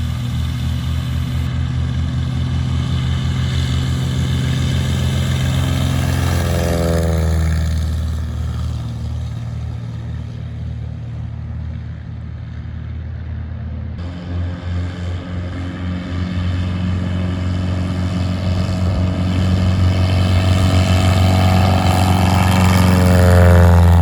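Piston engine of a light propeller airplane running steadily, with its sound sweeping twice as it passes by. It cuts abruptly to a louder engine sound about halfway through.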